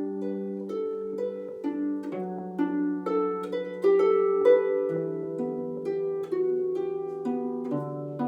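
Solo harp playing a melody in plucked notes and chords that ring over held low bass notes, with the bass moving down to a new note every few seconds.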